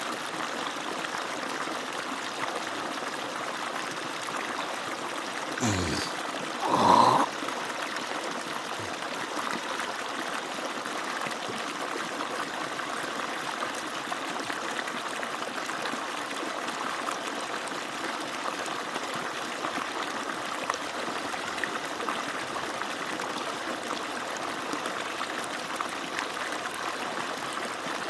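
Water flowing steadily from an agricultural pump's outlet. Two brief louder sounds come about six and seven seconds in, the second the loudest.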